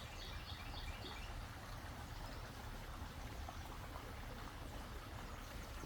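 Faint outdoor ambience: a steady hiss with a low rumble, and a quick series of bird chirps in the first second.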